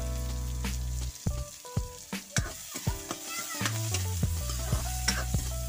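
Chopped onion sizzling in hot oil in a metal wok over a wood fire, with a ladle stirring and scraping it and clicking against the pan now and then.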